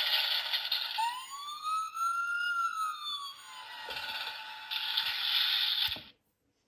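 Electronic truck sound effects from a children's sound book's small speaker: a noisy rumble, then one siren wail that rises and falls over about two and a half seconds, then another noisy burst that cuts off suddenly near the end.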